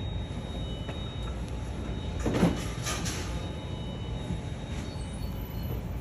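Steady low rumble of a moving vehicle, with a brief clatter about two and a half seconds in and another around three seconds.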